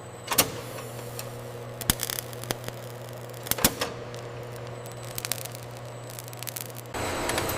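A steady low machine hum with scattered sharp clicks and knocks; a louder rushing noise sets in near the end.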